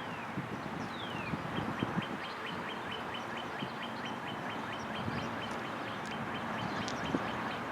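Birds calling: two falling whistles, then a steady run of short chirps about five or six a second, over a steady rushing background with scattered low knocks.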